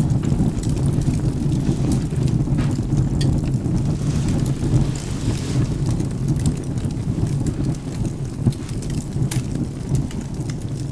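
Steady rain with a low, continuous thunder rumble, and a few sharp crackles of a wood fire scattered through it.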